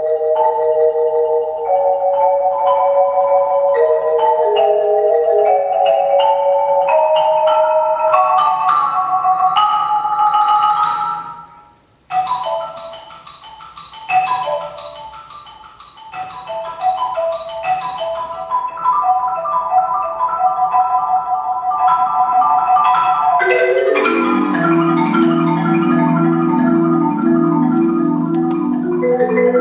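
Marimba played with mallets in quick runs of short notes that climb higher. About twelve seconds in it drops suddenly to a soft passage, then comes back with fast repeated notes, and low notes join near the end.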